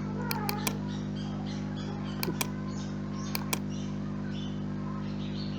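Computer mouse clicks in quick groups of two or three, over a steady electrical hum, with small birds chirping in the background.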